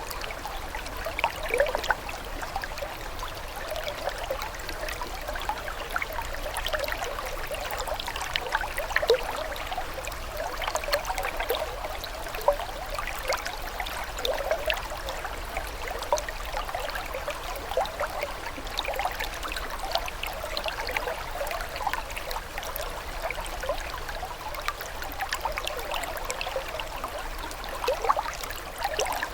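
Running water, trickling steadily, with many small quick splashes and drips.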